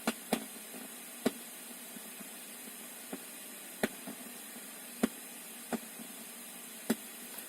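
Car speakers giving out a steady hiss with sharp pops at irregular intervals, about one a second, instead of the music sent through a PVT 898 car wifi display: the unit's sound fault.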